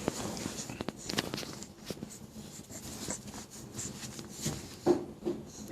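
Scattered small clicks and rustles of handling noise, with a brief voice-like sound near the end.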